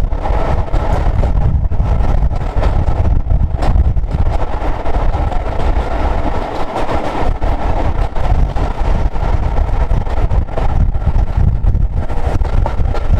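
A steam-hauled train running past with a steady heavy rumble, with wind on the microphone.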